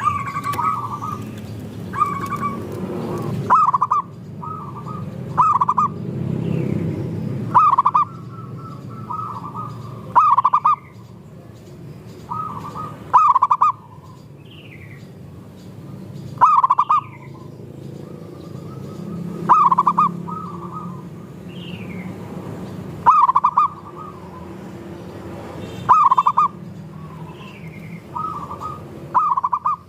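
Several zebra doves (perkutut) cooing, as in a group of birds singing together, with a loud coo phrase about every three seconds and softer coos between.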